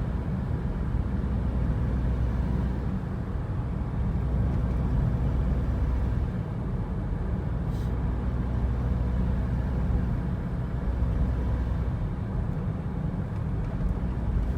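Steady engine and road noise of a moving car, a continuous low drone.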